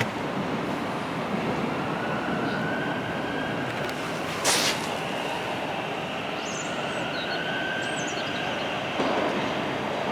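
Train running past on the tracks: steady rumble of wheels on rail, with one brief sharp crack about four and a half seconds in.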